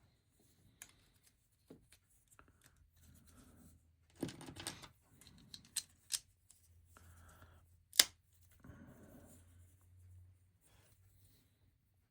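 Plastic LEGO bricks being handled and snapped together: scattered light clicks and rattles of pieces, with a burst of clattering about four seconds in and one sharp click about eight seconds in.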